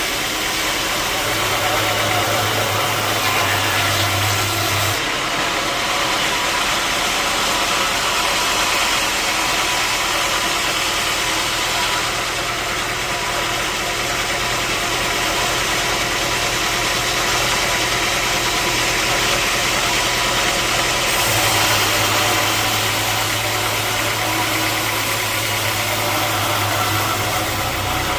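Sawmill machinery running steadily with an engine-like hum. A low drone drops out about five seconds in and comes back near the end.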